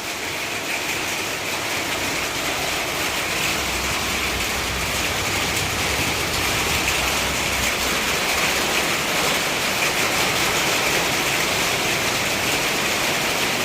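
Heavy rain falling steadily, a continuous even hiss that grows a little louder after the first few seconds.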